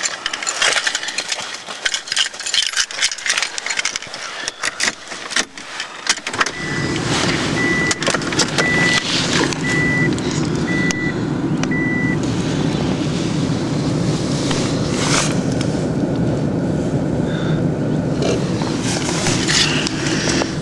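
Keys and clicks for about six seconds, then the cold 2.2-litre four-cylinder engine of a 1991 Honda Accord catches and runs steadily at a cold idle. A warning chime beeps about once a second for the first six seconds after it starts.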